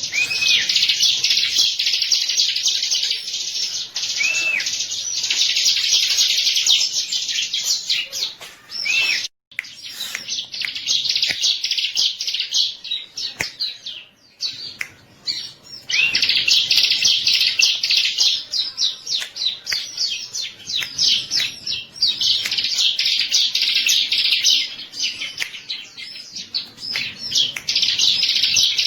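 Bar-winged prinia (ciblek) singing: long runs of fast, high chirping trills, with a few short arched whistle notes mixed in. The song breaks off briefly about a third of the way in and goes quieter and scrappier around the middle before the full trilling comes back.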